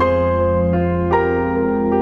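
Instrumental piano music: slow notes struck one after another, roughly two or three a second, over a sustained low bass.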